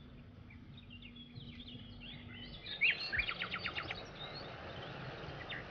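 Birds chirping in short scattered calls, with a quick run of rapid notes just past halfway, over faint background noise.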